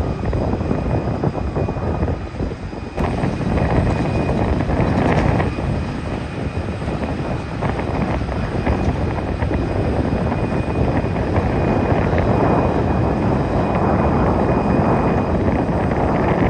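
Jet airliner engines of an Airbus A320neo arriving to land, a steady rumble with a thin high whine running through it. There is a brief dip and a sudden change about three seconds in.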